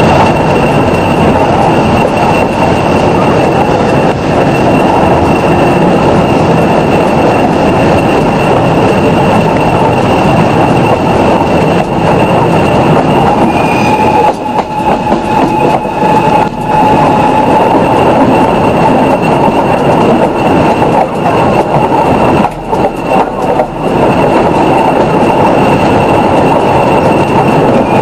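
A train rolling along the track with loud, steady running noise and a high, steady wheel squeal on top, with a few brief dips in loudness about halfway and two-thirds of the way through.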